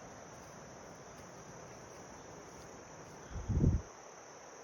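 Steady high-pitched chorus of crickets. A brief low thump comes about three and a half seconds in.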